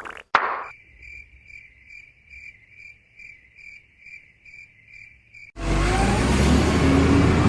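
Cricket chirps, a steady high pulsing chirp about two to three times a second, used as a silence gag. About two-thirds of the way through they give way to a loud, steady car driving noise with a low hum and a slight rising whine.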